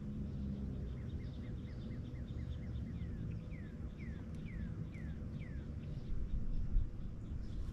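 A songbird singing a series of short down-slurred whistled notes, about two to three a second, loudest in the middle of the phrase. Under it runs a steady low rumble, with a low bump near the end.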